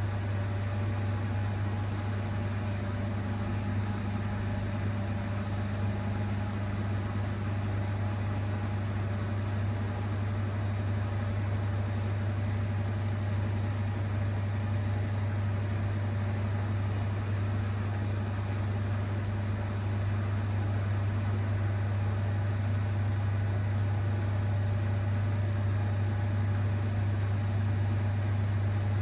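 Zanker EFX 4875 washing machine in its final spin cycle, running steadily at high speed with a strong, even low hum.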